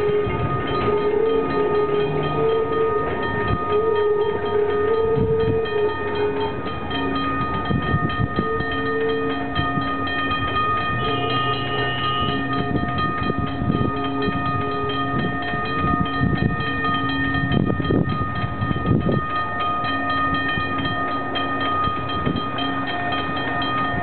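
Wooden passenger coaches and a caboose of a vintage steam train rolling slowly past on the rails, with irregular knocks from the running gear. Several steady high ringing tones sound throughout.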